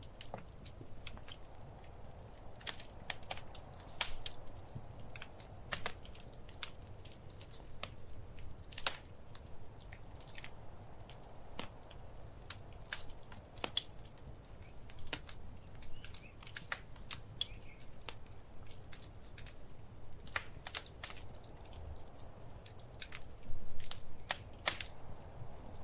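Wood fire crackling in a fireplace: irregular pops and snaps over a low, steady rumble, with a brief flurry of louder pops near the end.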